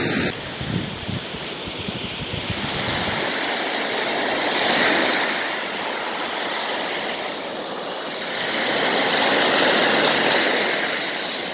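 Sea surf washing on the shore of the Sea of Okhotsk, a steady rush that swells twice as waves come in, with low wind buffeting on the microphone in the first few seconds.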